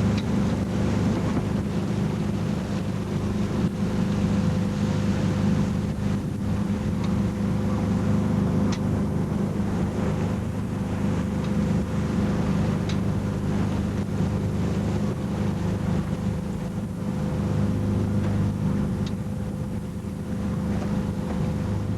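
Yacht under way at sea: a steady low motor hum over the rush of wind and water.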